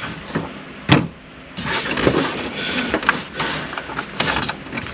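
Plastic dashboard trim and its retaining clips being handled: a sharp click about a second in, then scraping and rustling with small clicks as the clips are worked into place.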